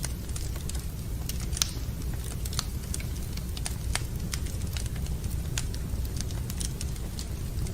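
Wood fire burning in a fireplace, crackling with irregular sharp pops over a steady low rumble; one louder pop about a second and a half in.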